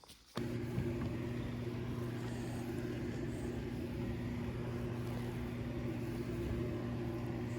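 A steady machine hum with a few even, unchanging tones, switched on suddenly about half a second in.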